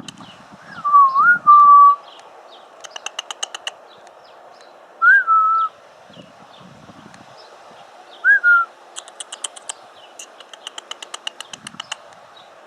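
Hummingbird chattering in quick runs of high, sharp chip notes, the longest run near the end, with three loud, short whistled notes that dip and rise in pitch.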